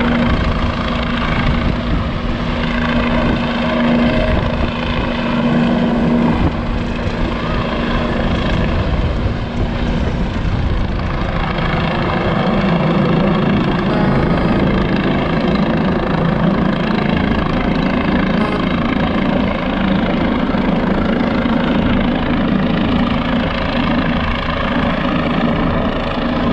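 Helicopter hovering low, a loud steady rotor and turbine noise with a pulsing low rotor beat.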